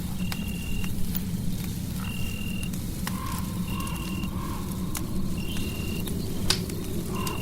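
Fireplace fire crackling, sharp pops over a steady low rumble. A short high chirp repeats about every second and a half, with a faint wavering tone in the middle.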